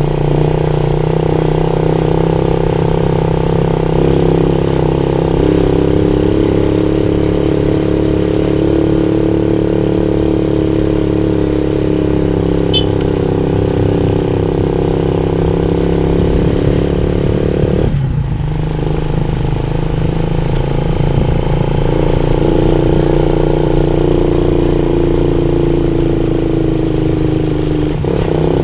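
Motorcycle engine running steadily while riding. Its note dips briefly about eighteen seconds in, then picks up again.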